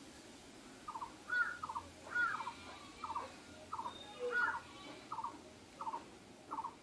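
A bird calling over and over in short notes, about two a second, some of them paired.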